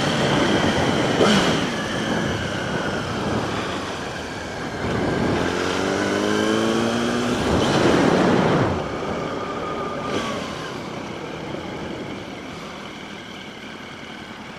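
Motorcycle riding in city traffic: engine and wind noise, with an engine revving up between about five and seven seconds in, then the sound easing off.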